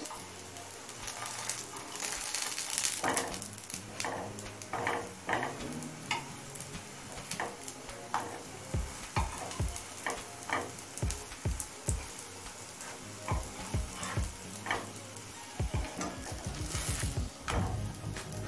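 Chhana 'eggs' sizzling as they fry in mustard oil in a non-stick pan, with repeated clicks and scrapes of a steel spatula as the pieces are turned over. The sizzle swells about two seconds in and again near the end.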